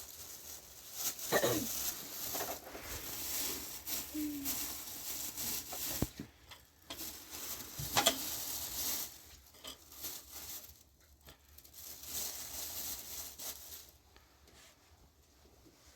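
Rustling and crinkling from something being handled, with sharp knocks about six and eight seconds in; it dies down for the last couple of seconds.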